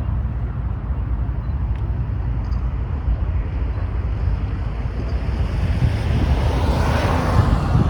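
Wind buffeting the microphone, a steady low rumble with hiss above it. A rushing noise swells about five seconds in, peaks near the end and starts to ease off.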